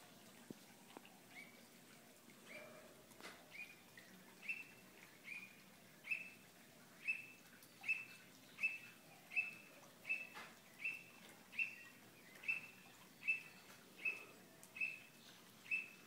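A bird calling repeatedly: a short, high note given about every three-quarters of a second, growing louder over the first few seconds and then holding steady.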